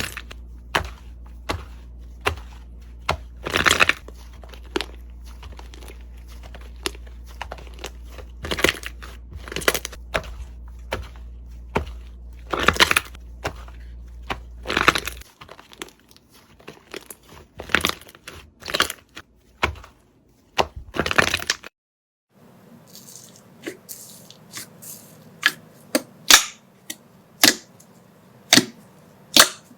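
Slime being handled, crackling and popping in sharp, irregular snaps with longer crunchy bursts. The sound changes about halfway through and stops briefly after about 22 seconds, then the snapping starts again.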